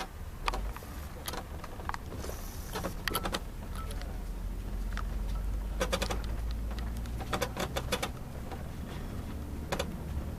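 Mercedes-Benz O500 RSD coach's diesel engine running with a steady low rumble that builds a little about four seconds in, with repeated short rattles and clicks over it.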